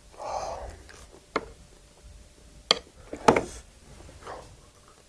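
Eating sounds at a table: a short breathy sound at the start, then four sharp clicks and knocks of utensils against dishes, the loudest a little past the middle.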